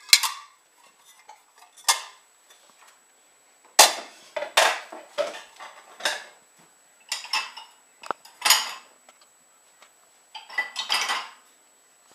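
Dishes and cutlery clinking and knocking together as a dishwasher is unloaded: a string of separate sharp clatters every second or two.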